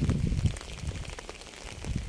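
Rain falling on a surface, a steady patter of many separate drops. A low rumble swells up at the start and again near the end, louder than the patter.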